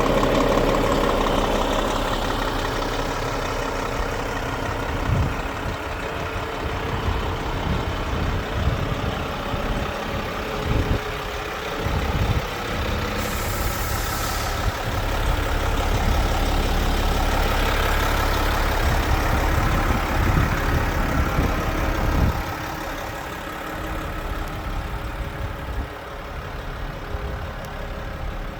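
Volvo FM 430 truck's 13-litre six-cylinder diesel idling steadily. A brief hiss comes about halfway through.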